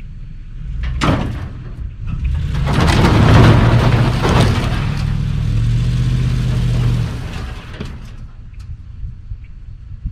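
Strong wind buffeting the camera microphone as a steady low rumble, with a short gust about a second in and a loud rushing surge from about two seconds in that lasts some five seconds.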